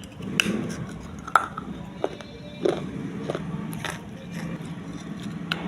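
Close-up biting and chewing of baked clay pot pieces: a string of sharp, crisp cracks, about six, the loudest about a second and a half in, over a steady low hum.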